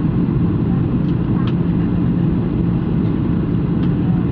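Steady low rumble of aircraft engine noise, even and unbroken, with a few faint ticks.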